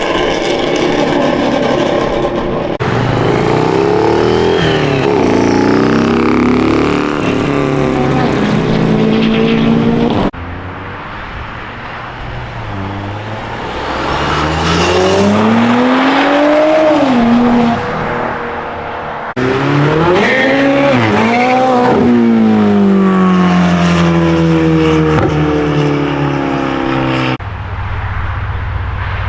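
High-performance car engines revving hard, in several short clips cut together. The pitch climbs and drops again and again, with a long pull up and a fall about halfway through and a run of quick blips about two-thirds of the way in.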